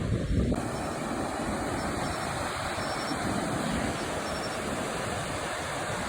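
Sea surf breaking on the shore, a steady rushing roar of waves, with wind buffeting the microphone briefly at the start.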